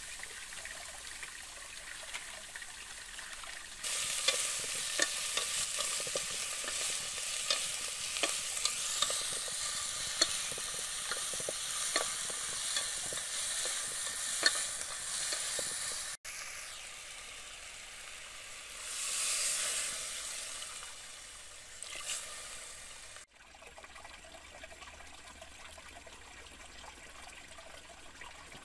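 Sliced bamboo shoots sizzling as they fry in a metal pot over a wood fire, with scattered sharp clicks and crackles as they are stirred. The sizzle comes in suddenly about four seconds in and breaks off after about sixteen seconds. After that there is a quieter hiss with a brief swell, and then a low steady hiss near the end.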